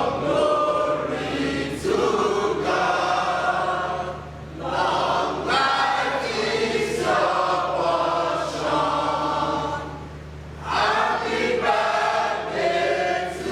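A choir of mixed voices singing in long sustained phrases, with two short breaks between phrases, about four and ten seconds in.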